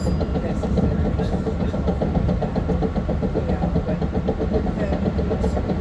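Running noise of a Long Island Rail Road M3 electric multiple-unit train under way, heard on board: a steady rumble of wheels on rail with a few constant tones humming over it.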